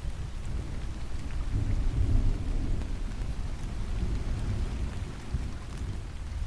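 Steady rain with a low rumble of distant thunder that swells about two seconds in and slowly fades.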